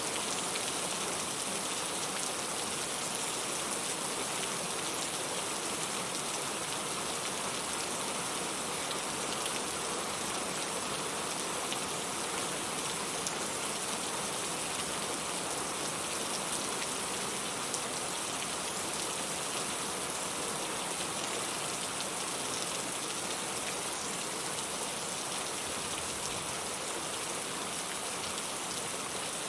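Steady rain falling, an even, unbroken hiss with faint scattered drop ticks on top.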